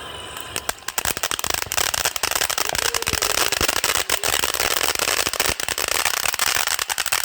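Fireworks going off in a dense, rapid string of crackling pops, starting about half a second in and cutting off sharply at the end.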